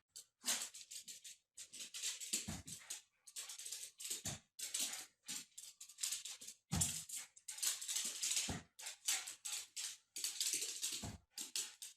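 A puppy breathing close to the microphone in a string of quick, short, breathy puffs, with a few low bumps.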